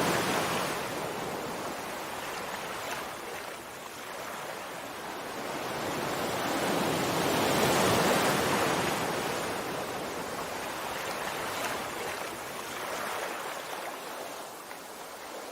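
Sea waves washing in: an even hiss of surf that swells and recedes, loudest at the very start and again about halfway through.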